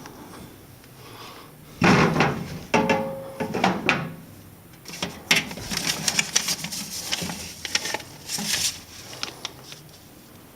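A series of knocks, clicks and rattles from something hard being handled, starting about two seconds in and dying away near the end, with a brief short ring a little under three seconds in.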